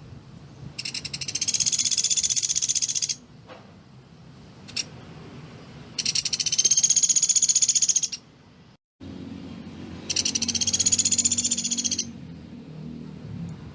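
Pelatuk beras woodpecker giving three rapid, high, dry trills, each about two seconds long with a slight rise and fall in pitch.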